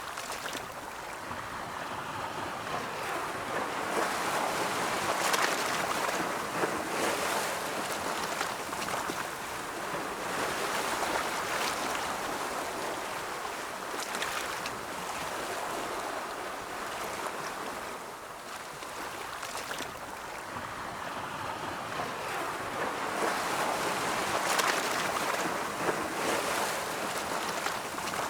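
Ocean surf: waves breaking and washing in a steady rush of water that swells and ebbs, building to louder breaks about five seconds in and again near the end.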